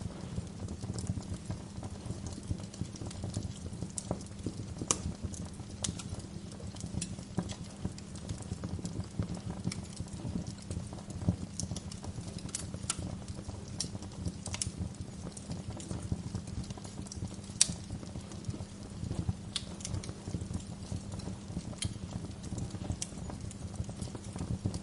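Wood fire in a fireplace crackling, with irregular sharp pops over a steady low rumble. One pop about two-thirds of the way through is louder than the rest.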